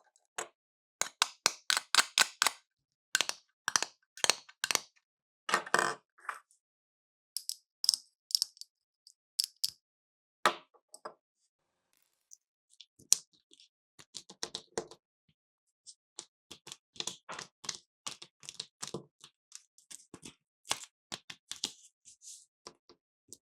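Small hard plastic clicks and taps in irregular clusters, with a few short pauses, from handling the plastic pieces of a toy cash register playset.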